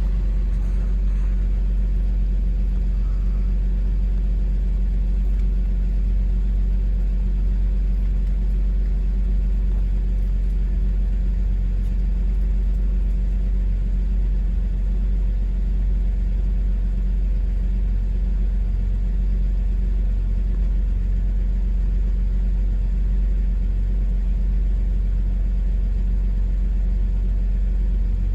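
2002 Porsche 911 Carrera (996) 3.6-litre flat-six idling steadily after a cold start, a constant low hum with no revving.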